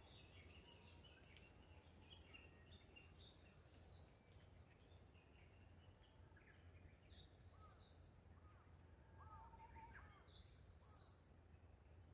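Faint songbird singing: a short, high phrase that steps down in pitch, repeated about every three seconds, with softer chirps from other birds in between. A steady low rumble sits underneath.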